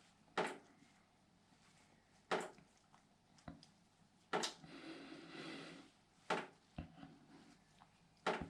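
Sharp clicks or knocks, one about every two seconds at a steady pace, some followed by a short faint hiss.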